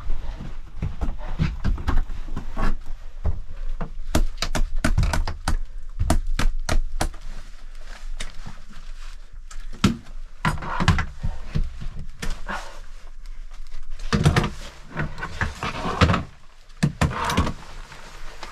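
A string of knocks, clicks and thuds in a small enclosed room, as of gear and a door being handled, with a few louder scuffing rushes in the second half and a low wind rumble in the first half.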